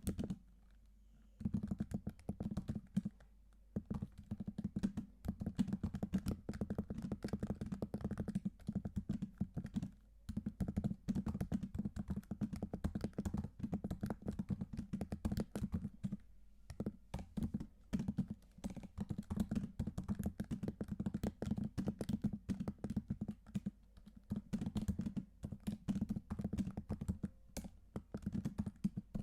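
Typing on a computer keyboard: fast runs of key presses broken by short pauses every few seconds.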